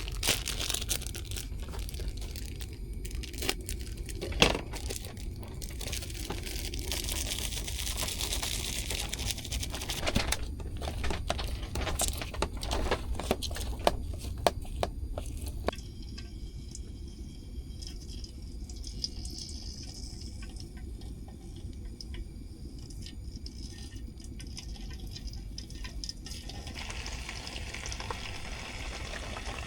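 Crinkling and tearing, like plastic being handled, with many small clicks and knocks for about the first sixteen seconds, then a quieter steady hiss over a low rumble.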